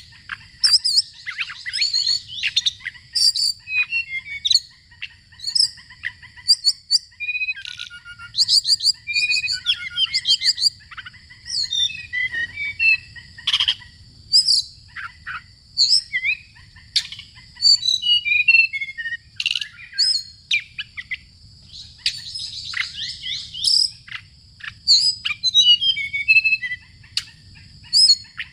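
Birdsong: a dense run of rapid chirps, whistles and trills following one another with few pauses, some of the notes sliding up and down in pitch.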